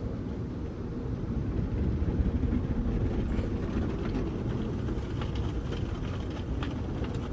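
Automatic car wash machinery running around the car, heard from inside the cabin: a steady low rumble with light patters and ticks from about three seconds in.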